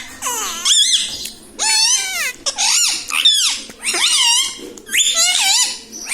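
Indian ringneck parrot giving about five high-pitched calls in a row, each rising and falling in pitch and lasting under a second.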